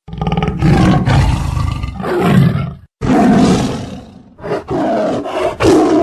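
Loud calls of a large animal: three long calls with short breaks between them, the first and last cut off abruptly.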